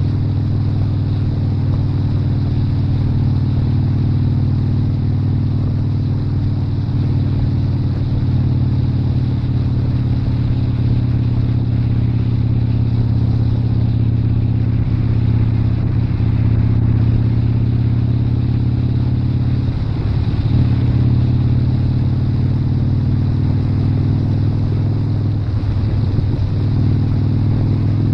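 Motorcycle engine running steadily at cruising speed, heard from on the bike with road and wind noise. Its note wavers briefly about twenty seconds in and again near the end.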